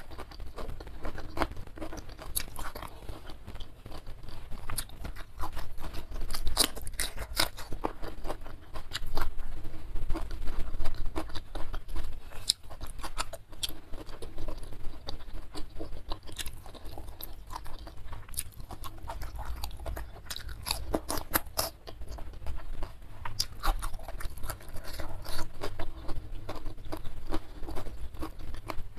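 Close-miked ASMR chewing and crunching of a mouthful of smashed fried chicken (ayam geprek), rice and raw cucumber: irregular crisp crunches and chewing sounds throughout.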